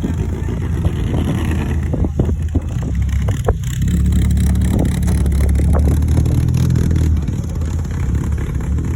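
A car engine running with a deep low note, growing louder about midway and easing off near the end, with a few scattered knocks.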